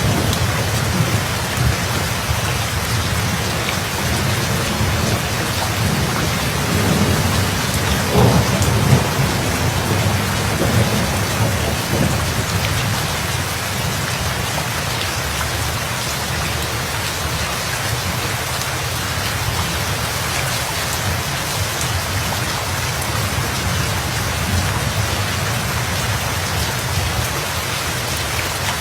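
Steady rain falling, with thunder rumbling low through the first half and fading away about halfway through.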